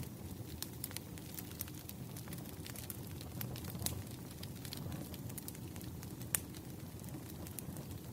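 Wood fire burning: a steady low rumble of flames with frequent sharp crackles and pops, two of them louder, about four and six seconds in.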